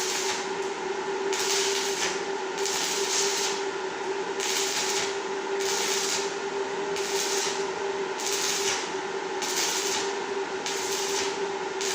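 A steady mechanical hum with a rhythmic hissing stroke repeating about once a second.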